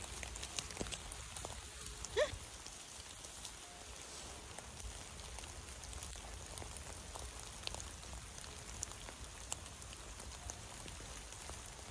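Light rain pattering on leaf litter and trees, with scattered drop ticks. About two seconds in, the husky gives one short, high whine.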